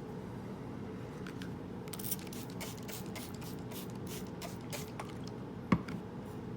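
A straight razor being stroked across a wet sharpening stone: a quick run of about a dozen short hissing strokes, three to four a second, over a steady low hum. A single sharp click comes near the end.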